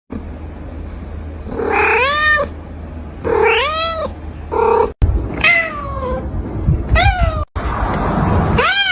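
Kitten meowing repeatedly, about six calls, each rising and falling in pitch, a couple of them long and drawn out with a falling tail.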